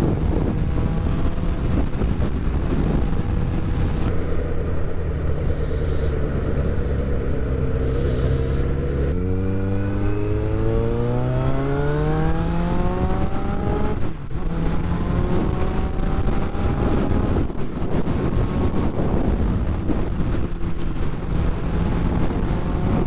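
Motorcycle engine under way with wind on the microphone. It runs steadily at first, then the revs climb over several seconds. About fourteen seconds in the sound briefly breaks, then settles into steady running.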